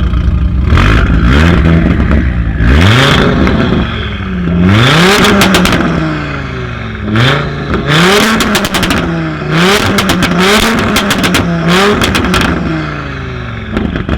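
Tuned car engine revved repeatedly from idle in quick blips, the pitch rising and falling about eight times, with exhaust crackles and pops as the revs drop.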